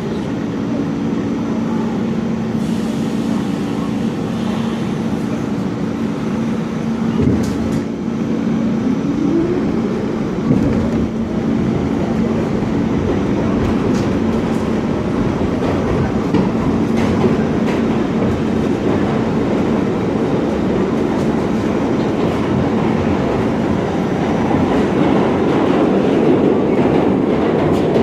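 New York City subway F train running between stations, heard from inside the car. A steady motor hum, a short rising whine, a couple of sharp knocks from the track, and running noise that builds toward the end.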